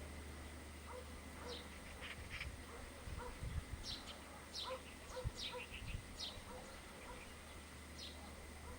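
Birds chirping: short, high notes that fall in pitch, scattered and sometimes in quick runs. Faint, regular low notes sound about once or twice a second, and a few low thumps come around the middle.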